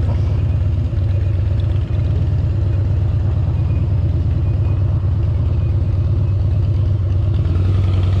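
Steady low rumble of surrounding road traffic and wind on the microphone, heard from a quiet electric motorcycle riding in city traffic.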